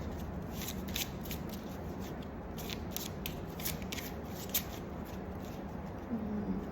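Tarot cards being handled and shuffled: a run of quick, irregular crisp flicks and snaps of card stock over a steady low hum.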